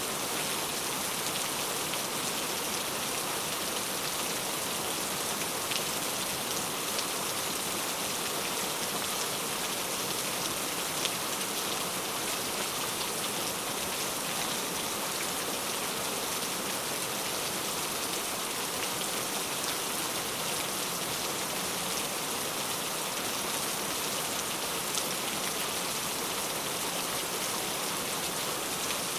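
Heavy rain falling steadily, an even hiss of many drops with the odd louder drop tick standing out.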